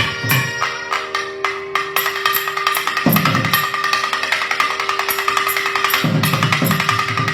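Nadaswaram ensemble playing Mandari raga: a steady drone under the melody, with fast thavil drumming. Heavier low drum strokes come in about three seconds in and again near the end.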